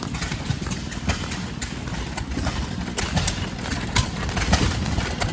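Small two-stroke Maytag Model 92 gas engine running through an add-on muffler, with a steady low rumble and uneven sharp popping.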